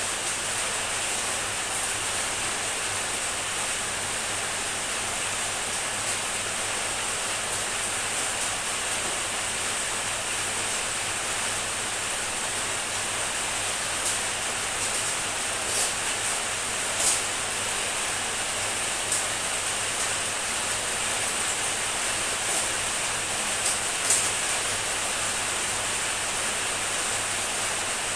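Heavy rain falling steadily, an even hiss, with a few louder single drops tapping in the second half.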